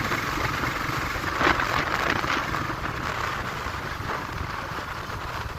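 Riding noise on a TVS Ntorq scooter: a steady low engine hum under road and wind noise, briefly louder about a second and a half in.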